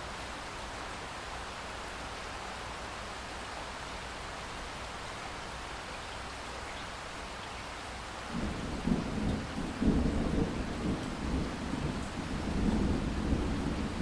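Steady rain falling as an even hiss. About eight seconds in, a roll of thunder starts: a low rumble that swells twice and keeps rolling.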